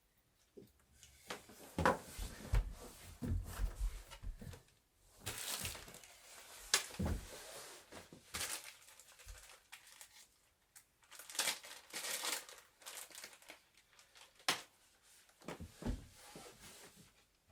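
Wooden bed being assembled: irregular handling noise of scraping and rustling, broken by several dull knocks and thumps, in a small room.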